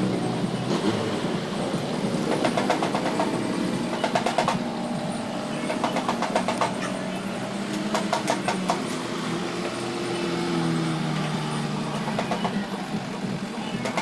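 Shoe-sewing machine stitching in about six short bursts of rapid clicking, over a steady low rumble.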